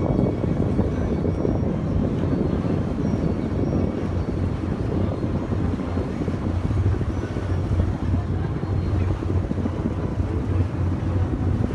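Steady drone of a yakatabune pleasure boat's engine while under way, with wind buffeting the microphone.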